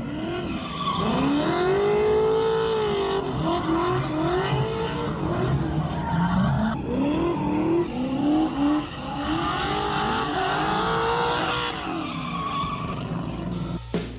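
Drift car engine revving up and down several times, the pitch rising and falling, over the noise of tyres skidding.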